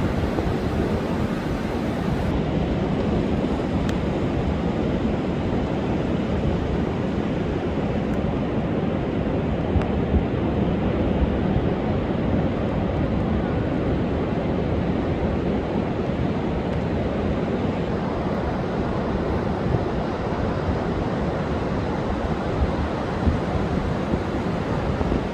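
Heavy storm surf pounding a sandy beach in a continuous deep rush, under a wind and wave advisory, with wind buffeting the microphone.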